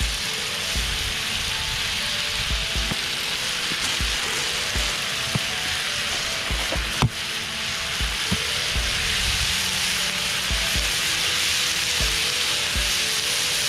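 Chicken, komatsuna and bean sprouts sizzling in sesame oil on a hot flat griddle over a gas burner, a steady frying hiss. A single sharp knock comes about seven seconds in.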